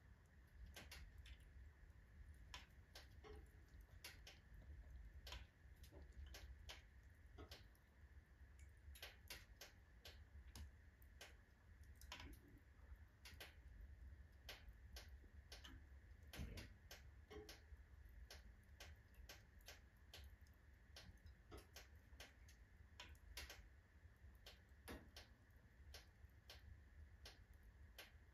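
Wood fire of alder and oak logs burning in a fireplace stove, crackling faintly with short, irregular pops, several a second, over a low steady rumble.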